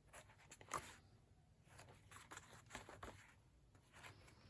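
Faint rustling and soft clicks of paper pages being handled and turned in an old book, against near silence.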